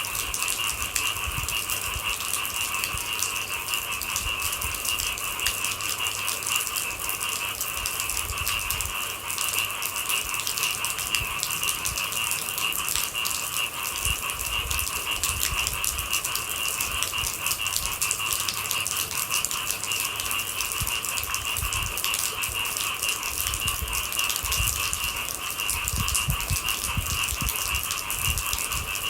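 Steady rain falling, with a continuous high-pitched chorus of night insects over it and occasional low rumbles.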